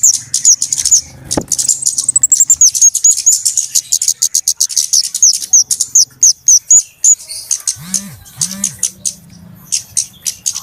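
Flowerpecker (kemade, cabe-cabean) calling: a fast, agitated run of very high, thin, sharp chirps. The run is densest through the middle and breaks into sparser ticks near the end.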